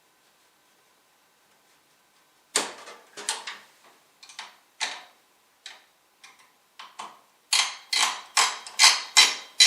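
Irregular clicks and rattles of computer hardware being handled as a desktop PC is opened up to get at the CPU cooler. The clicks start a couple of seconds in, come sparsely at first and grow quick and dense near the end.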